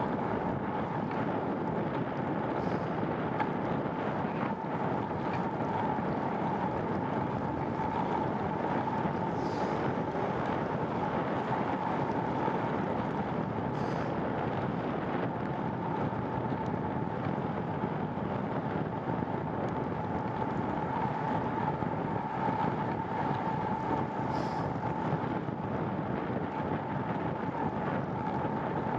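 Steady rush of wind and road noise from a bicycle ride, unbroken, with a faint steady hum running through it.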